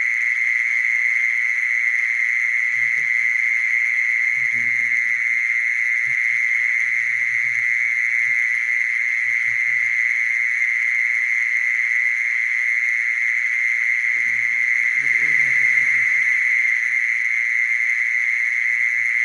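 Mole cricket singing a steady, unbroken high trill. Fainter low sounds come and go a few seconds in and again near the end.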